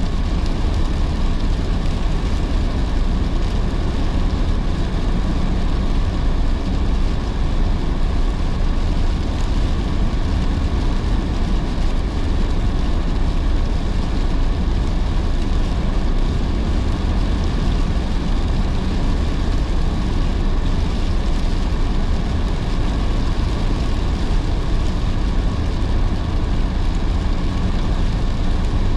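Steady road noise of a car driving on wet roads in heavy rain: a constant low rumble of tyres and engine with the hiss of rain and spray on the car.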